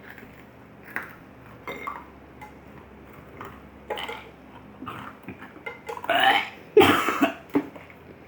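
A man gagging on a mouthful of boiled-down Coca-Cola: a few small throat sounds, then two loud, throaty heaves about six and seven seconds in, the second the louder.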